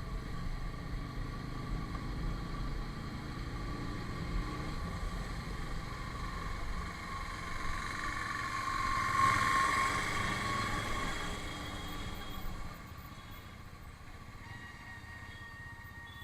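Road vehicle noise: a steady low engine and road rumble that swells louder for a few seconds past the middle, then drops off sharply about twelve and a half seconds in.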